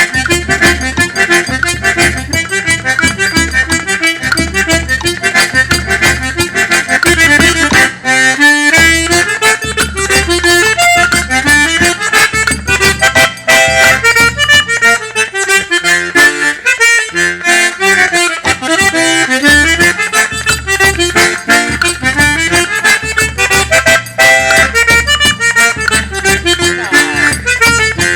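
Accordion (sanfona) playing a lively regional tune over a steady low drum beat; the beat drops out briefly about eight seconds in and again for a couple of seconds past the midpoint while the accordion carries on.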